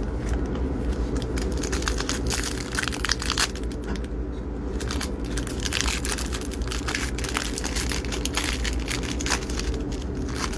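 Wrapper of a Topps baseball trading-card pack crinkling and crackling as it is torn open and handled, over a steady low background hum.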